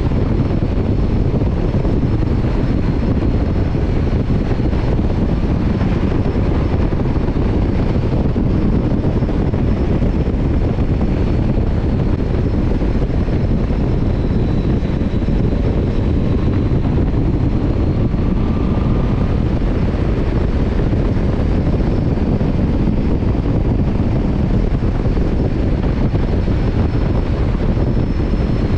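Motorcycle riding at a steady pace on the road: engine running and wind rushing past the microphone, a constant low rumble.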